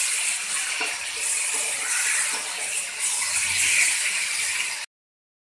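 Marinated chicken pieces sizzling in hot oil and ghee in a kadhai while being stirred with a spatula, a steady loud hiss with a few faint scrapes. The sound cuts off suddenly near the end.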